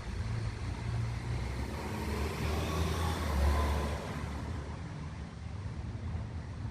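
Thunder rumbling, swelling to its loudest about three and a half seconds in and then fading, over a steady hiss of rain.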